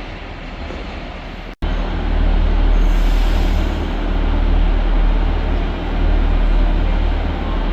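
Train running through the station with a steady rumble; about one and a half seconds in the sound drops out for an instant and comes back louder and deeper.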